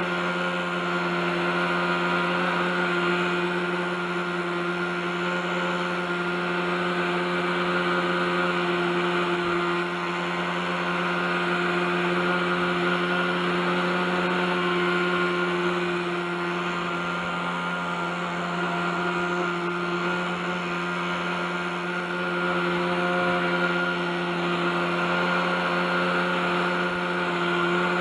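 OS 61SF two-stroke glow engine of an RC helicopter running steadily at hover, holding an even pitch while its loudness swells and eases a little every few seconds. The engine has gone some thirty years without maintenance, and its bearings are still rusty.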